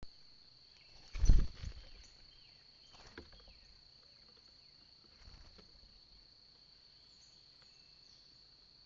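Steady high-pitched drone of crickets or similar insects. About a second in comes a brief cluster of close, loud thumps and knocks, with lighter knocks around three and five seconds.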